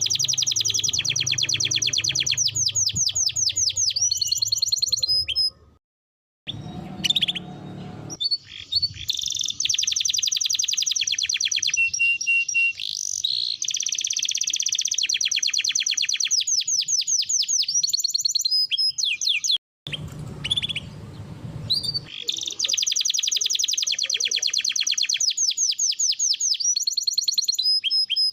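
Domestic canary singing long rolling trills and rapidly repeated high notes, the song twice cut off briefly by short pauses.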